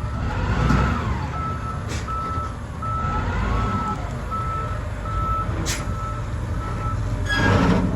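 Heavy vehicle's reversing alarm beeping evenly, a little faster than once a second, over a diesel engine running. Near the end a loud rush of noise lasting about half a second rises over it.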